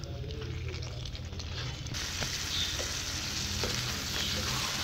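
Chicken gizzard masala sizzling in oil in a nonstick pan while a spatula stirs it, with a few light scrapes. This is the bhuna stage, the simmered gizzards being fried in added oil. The sizzle grows a little louder about two seconds in.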